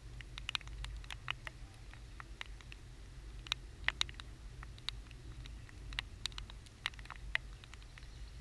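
Raindrops striking the camera in irregular sharp ticks, several a second, over a low steady rumble.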